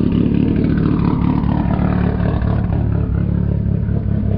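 A 2024 Lexus IS500's 5.0-litre 2UR-GSE V8 running steadily through its stock exhaust, giving a constant low drone.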